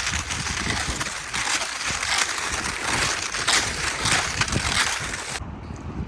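Snow crunching in a steady rhythm, about three strokes every two seconds; the sound changes abruptly about five and a half seconds in.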